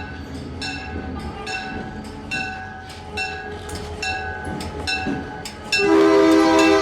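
Locomotive bell ringing about twice a second over a low engine rumble, then the locomotive's air horn sounding loudly near the end.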